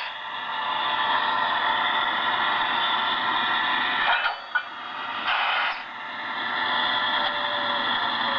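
Model electric train running on its track, a steady mechanical running noise, with two brief louder bursts about four and five and a half seconds in.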